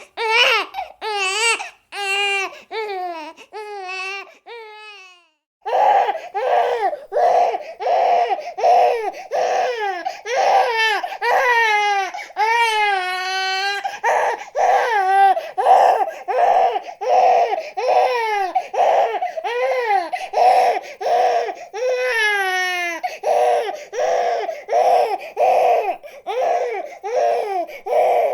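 An infant crying in short, repeated pitched wails that fade away and stop about five seconds in. After a brief gap, crying starts again in a faster run of short cries, about two a second, broken by a few longer wails that rise and fall.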